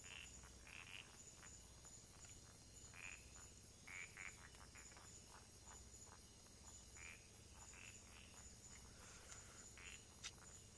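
Faint frogs calling, short croaks repeated at irregular intervals, over a faint steady insect trill, with one brief click near the end.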